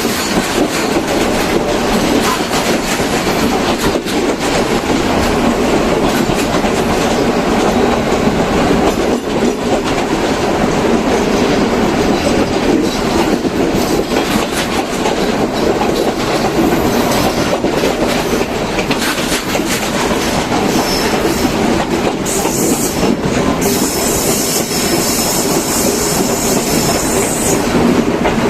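Train running along the line, its wheels clacking over the rail joints under a steady loud rumble, with a high-pitched wheel squeal for a few seconds near the end.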